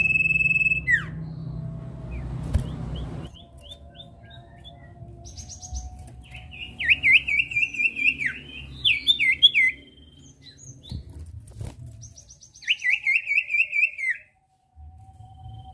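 Common iora (sirtu) singing: a long, steady high whistle that slides down at its end, then quieter notes and rapid series of quick chirping notes repeated in phrases.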